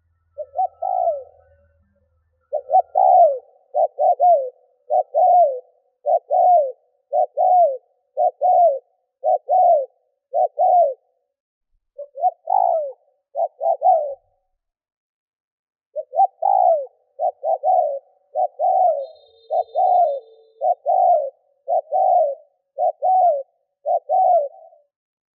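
Spotted dove cooing: a long series of short coo notes, coming singly and in quick pairs, with brief pauses a few times along the way. This is the fast, insistent 'thúc gù' cooing used as a decoy call to stir up wild doves.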